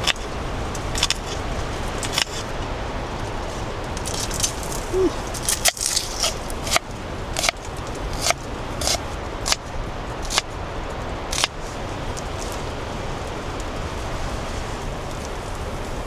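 Potatoes frying in butter in a pan: a steady sizzle with irregular sharp pops and spatters, the pops thinning out in the last few seconds.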